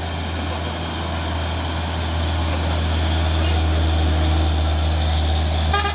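Heavy diesel truck engine running with a steady low drone that grows gradually louder, then a short burst of clicks near the end.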